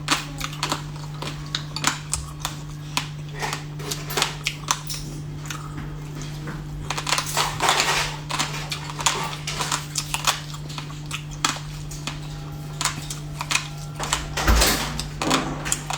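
Close-miked mukbang eating: irregular crunching, smacking and clicking of chewing and handling food, over a steady low electrical hum.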